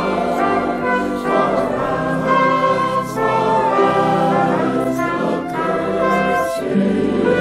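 Music: a brass ensemble playing slow, held chords that change every second or so.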